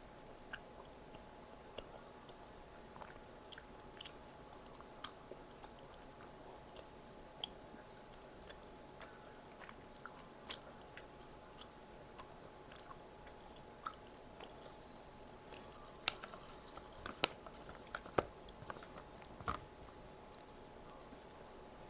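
Close-miked chewing and biting of Korean snack food (bunsik), with scattered crisp clicks and small crunches that come more often in the second half. A faint steady hum runs underneath.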